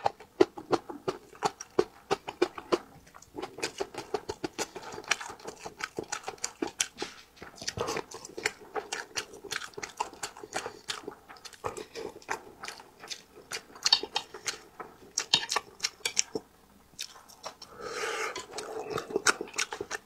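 Close-miked wet chewing and lip smacking as a person eats braised fish, many rapid, irregular clicks with short pauses; a denser, noisier stretch comes near the end.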